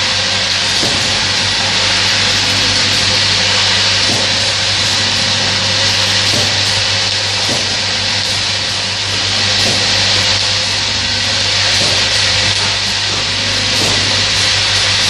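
Automatic bottle filling machine running: a steady hiss with a low electrical hum and faint, regular clicks about once a second.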